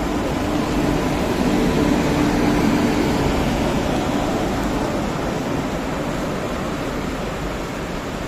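WAP7 electric locomotive and its passenger coaches passing at slow speed: a steady rumble of wheels on the track with a faint hum. The sound is loudest about one to three seconds in as the locomotive goes by, then eases as the coaches roll past.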